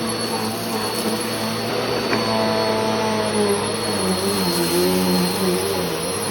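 Bissell PowerForce Helix Turbo Rewind Pet (model 1797) upright vacuum cleaner running: a steady motor drone with a thin high whine over it, the lower pitch wavering a little.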